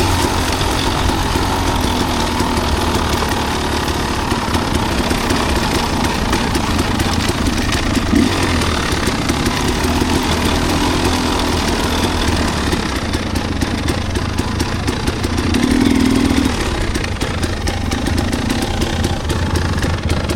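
Enduro dirt bike engine running at fairly steady revs.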